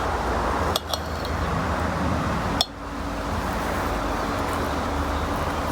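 A knife and dishes clinking on glass while strawberries are cut and prepared, with two sharp clinks, one about a second in and one about two and a half seconds in, over a steady hiss.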